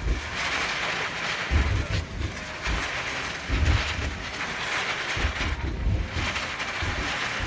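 Aerial fireworks going off in a continuous barrage: low booms every second or so over a constant crackle.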